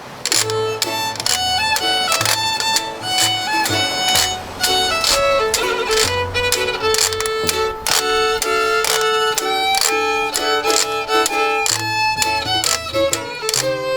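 Small acoustic string band playing an instrumental passage: a fiddle carries the melody over ukulele and bass ukulele, with a washboard keeping a steady beat.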